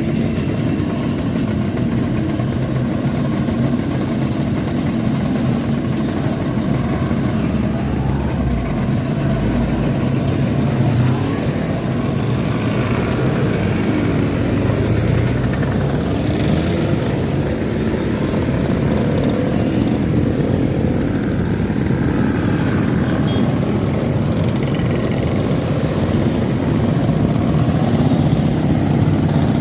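Engines of a group of classic Vespa scooters and motorcycles running steadily as they ride off together, with the pitch rising and falling now and then as riders rev.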